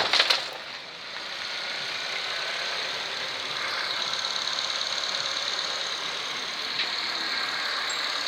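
Mazda ZJ-VE 1.3-litre four-cylinder petrol engine idling steadily after a few sharp knocks near the start.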